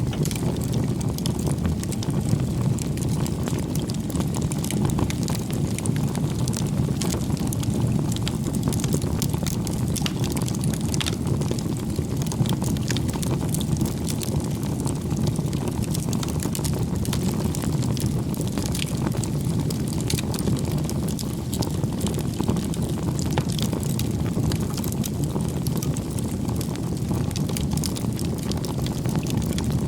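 Wood fire burning steadily: a low rushing roar of flames with frequent small crackles and pops from the burning firewood.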